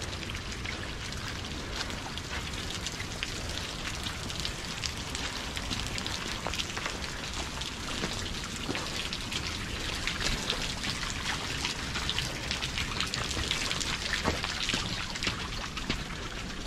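Rain falling: a dense, irregular scatter of small drop ticks over a steady hiss, with a low steady rumble underneath.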